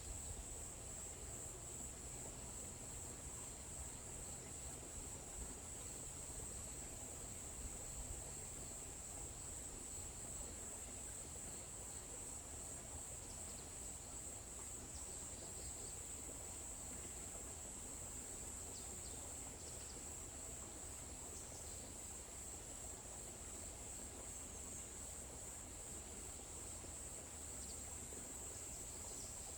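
Faint, steady high-pitched trilling of an insect chorus in a forest, going on without a break. A few short faint chirps rise over it around the middle.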